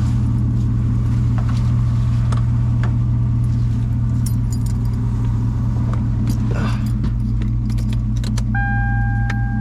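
Car engine idling steadily, with keys jangling and small clicks over it. Near the end a car's electronic warning chime starts, a steady two-note tone.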